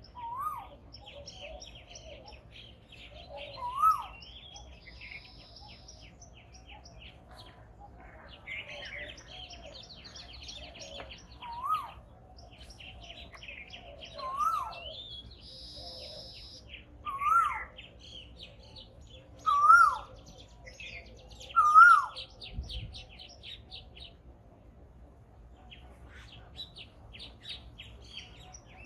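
Birds chirping, with one bird repeating a short call that rises and then falls every few seconds, louder than the scattered higher chirps around it.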